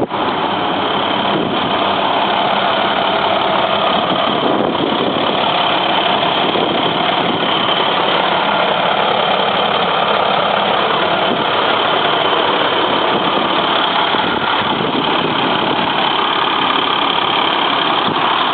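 A 2012 International water truck's diesel engine running steadily.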